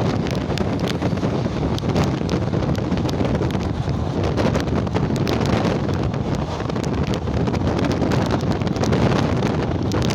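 Passenger train running at speed, heard from on board: a steady rumble with frequent small clicks and rattles, and wind buffeting the microphone.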